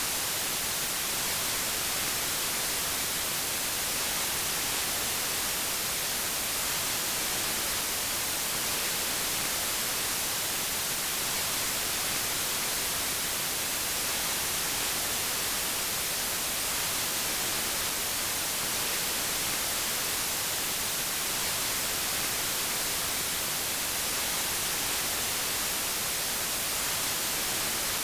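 Steady white noise: an even, unchanging hiss across the whole range, brightest in the high frequencies.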